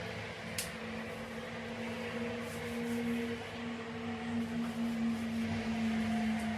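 A household appliance's motor humming steadily, with one sharp click about half a second in.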